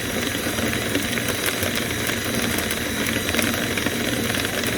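Drill spinning a rotary dryer-vent cleaning brush inside the vent duct: a steady whir with hiss and rattle as the brush scours lint loose.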